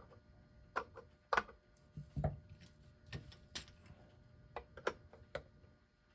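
Small metal clicks and taps of a hand tool working at the small nuts on an electric clock movement's plate, about ten irregular clicks with a duller knock a little over two seconds in; the nuts are tight.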